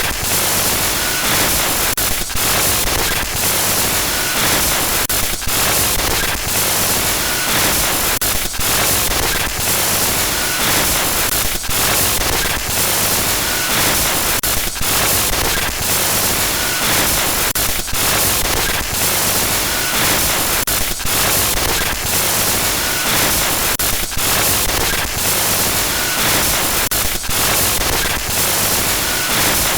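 Loud, continuous glitchy static noise, a harsh hiss that stutters with frequent brief dropouts and crackles: a horror glitch-noise sound effect.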